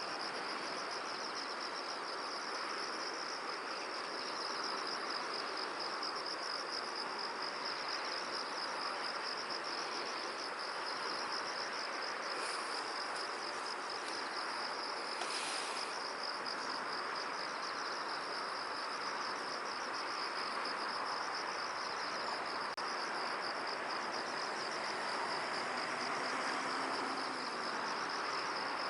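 Insects chirring steadily in a continuous, rapidly pulsing high trill over a steady hiss of wind in a field, with a couple of brief high calls near the middle.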